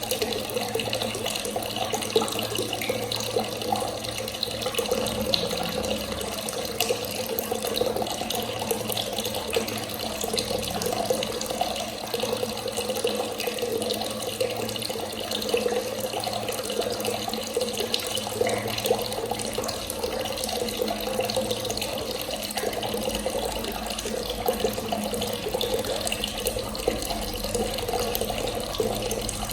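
Water running steadily from a tap, a continuous splashing stream with no pauses.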